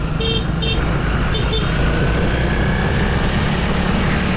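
Single-cylinder Honda CRF300L dirt bike engine running steadily under way on a trail, with a faint rise in revs in the middle. A few short high beeps sound in the first second.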